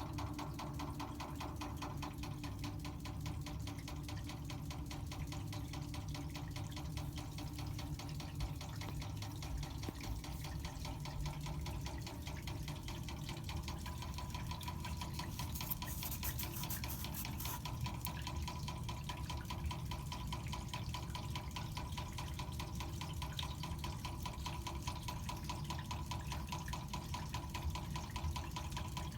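Water meter knocking fast and continuously while water runs through it, with a water-flow rush underneath; a faint steady whine comes in about halfway through.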